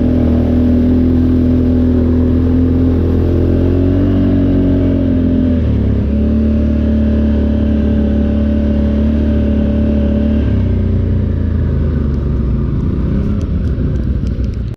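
ATV engine running under way at a steady pace, with a brief dip in revs about six seconds in and the engine easing off about ten seconds in. A few faint ticks near the end.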